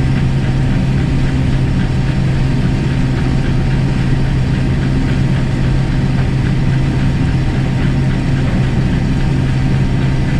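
Case IH 1660 combine running with a steady, low drone.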